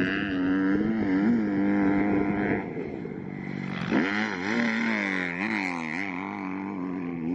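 Dirt bike engine being ridden, its pitch holding steady, then dropping off about two and a half seconds in and jumping back up about a second later with the revs going up and down.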